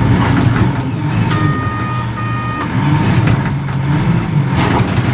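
Diesel engine of a reach stacker running steadily under load, with its reverse alarm giving two beeps about a second in.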